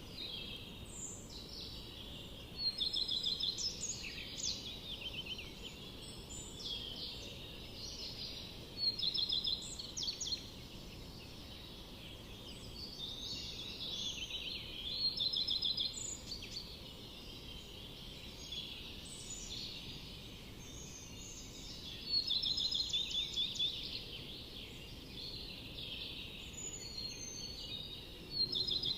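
A songbird sings a short trilling phrase again and again, about five times, every several seconds, over steady low background noise.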